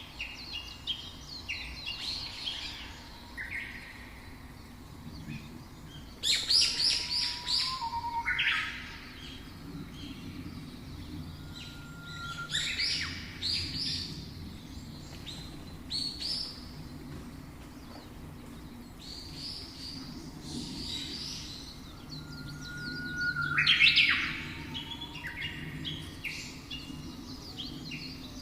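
Songbirds singing and chirping, several overlapping songs with quick trills and slurred whistles. Louder phrases come about six, thirteen and twenty-four seconds in, over faint low background noise.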